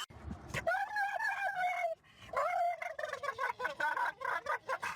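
An animal's pitched calling: a long held call, a short call after a brief pause, then a fast warbling run of short calls.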